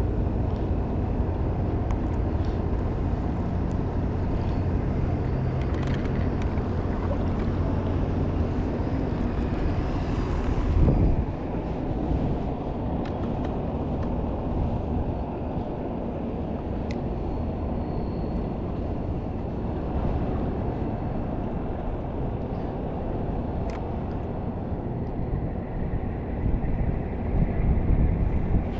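Boat engine running steadily, with wind on the microphone. A single loud thump about eleven seconds in.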